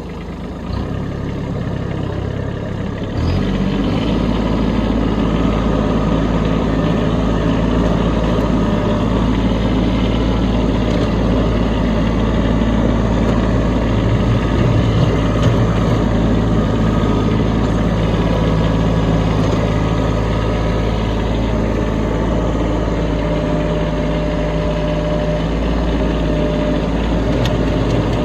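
Kubota B2601 compact tractor's three-cylinder diesel engine running while the tractor clears snow with its front bucket; the engine gets louder about three seconds in and then runs steadily under load.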